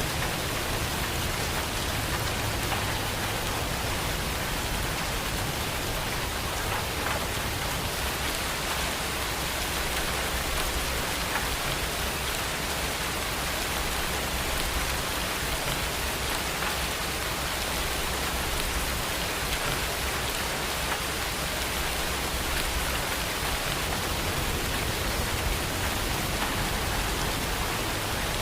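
Steady, heavy rain falling and pattering on surfaces, with a low rumble underneath through the middle.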